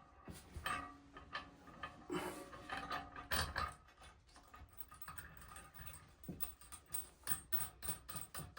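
Ratchet wrench clicking in short irregular runs as it turns the nuts on the toilet's tank-to-bowl bolts, with small metallic knocks and handling noise.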